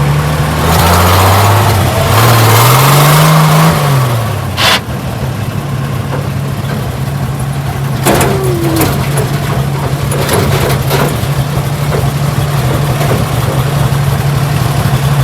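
1968 Ford Bronco's engine running while being driven: the engine revs up and back down over the first few seconds, then holds a steady note, with a few short sharp clicks along the way.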